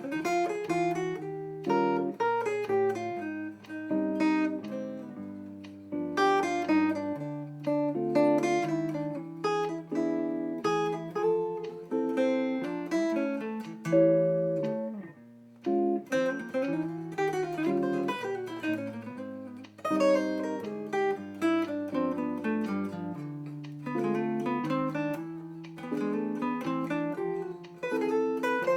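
Acoustic guitar music: a continuous piece of plucked notes over a moving bass line.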